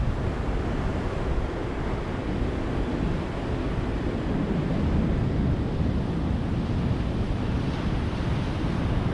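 Ocean surf: a steady wash of breaking waves, swelling gently in level.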